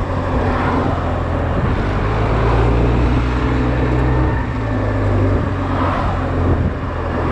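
Honda Silver Wing motorbike engine running steadily while riding, a low hum under wind and road noise on the onboard camera's microphone.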